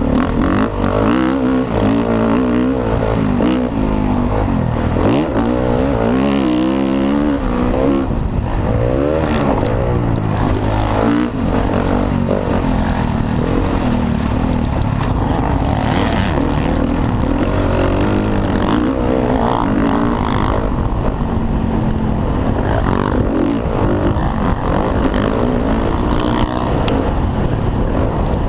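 Motocross dirt bike engines racing, revving up and down as the bikes accelerate and shift, with several engines overlapping.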